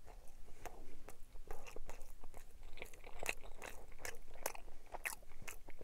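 A person chewing a mouthful of soft braunschweiger sandwich on white bread, with many small irregular mouth clicks.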